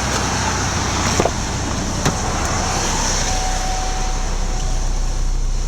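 2002 Chevy Trailblazer's Vortec 4200 4.2-litre inline-six idling steadily, heard from inside the cabin, with a couple of light clicks about one and two seconds in.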